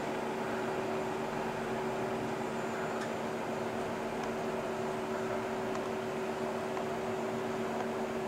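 A steady mechanical hum, a low double tone over an even hiss, starting abruptly and holding unchanged throughout, with a few faint ticks.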